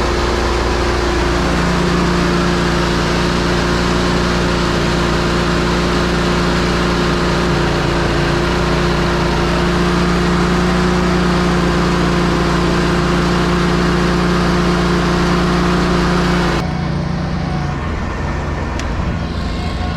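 Ready-mix concrete truck running with the engine throttled up and the drum turning to discharge, rattling and popping as the drum runs nearly empty of concrete. Near the end the engine note drops suddenly to a lower level.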